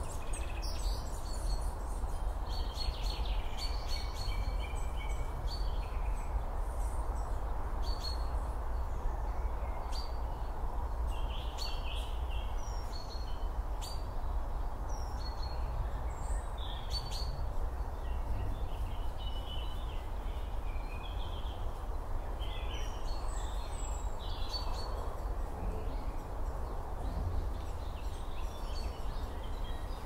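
Birds chirping and calling on and off throughout, over a steady low rumble of outdoor background noise.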